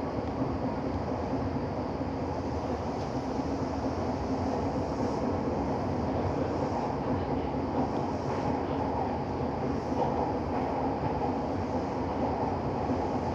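Running noise heard from inside a Minato Mirai Line limited express train in its underground tunnel: a steady rumble of wheels and running gear with a constant low hum underneath.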